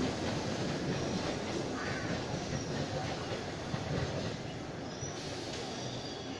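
Wheels of an Indian Railways express train's blue passenger coaches rumbling over the rails, the sound slowly fading as the tail of the train pulls away.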